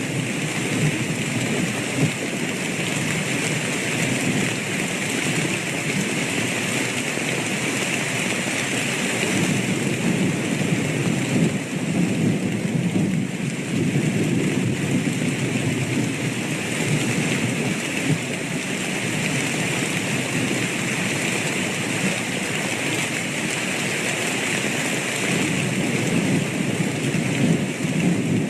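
Steady heavy rain with a deep, continuous rumble of thunder underneath.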